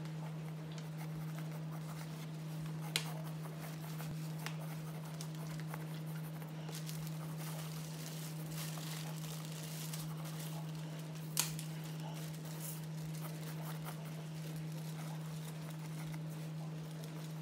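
Pencil sketching on a canvas board: light scratchy strokes over a steady low hum, with two sharp clicks, one about three seconds in and one about eleven seconds in.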